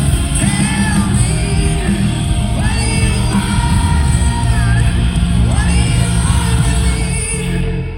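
Loud live pop-rock band with heavy bass and drums, a voice singing over it and the crowd yelling, heard from among the audience in a large hall.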